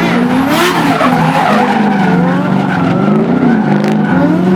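Drift cars in a tandem battle, one of them a Nissan R33 Skyline: engines revving, their pitch rising and falling, with tyres squealing as the cars slide sideways.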